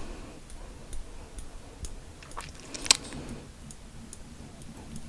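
Sparse soft clicks and ticks close to the microphone, with one sharper click about three seconds in.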